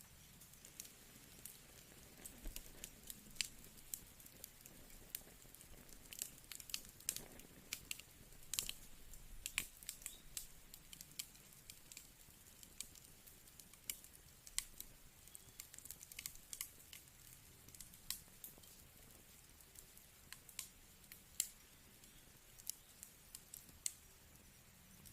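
Fireplace fire crackling: irregular sharp pops and snaps over a faint soft hiss, coming thicker in the first half.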